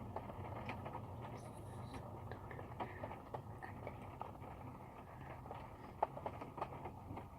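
Light rain heard from inside a car: faint, irregular taps of drops on the body and glass over a low steady hum.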